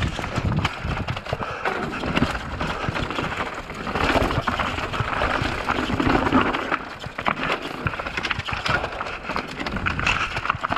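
Downhill mountain bike rattling and clattering over rocks: a rapid, irregular run of knocks and impacts over tyre and wind noise, loudest about midway.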